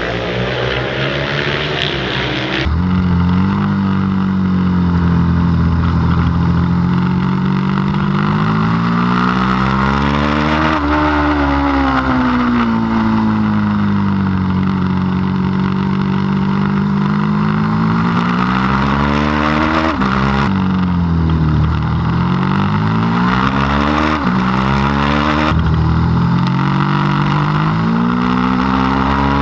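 Middleweight superbike race motorcycle engine running hard on track: its pitch climbs and falls over several seconds at a time as the bike accelerates and slows. In the second half it breaks into quicker rises with several sudden drops in pitch.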